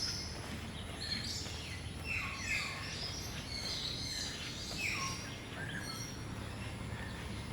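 Several birds calling and chirping: a few clear calls that fall in pitch, around two seconds in and again near five seconds, among higher twittering, over a steady low background hum.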